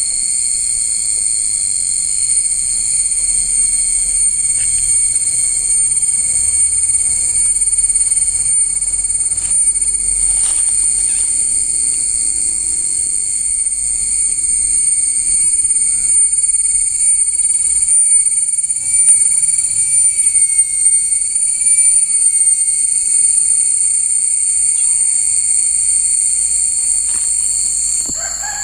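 Insects shrilling in a steady, high-pitched drone that holds unbroken and cuts off suddenly near the end.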